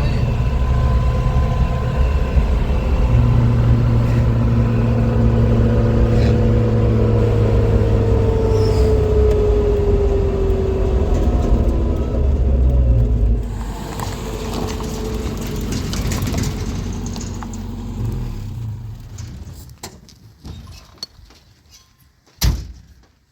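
A motor vehicle's engine running steadily with a slowly falling note. About halfway through it drops in level and then fades away, leaving a few sharp clicks near the end.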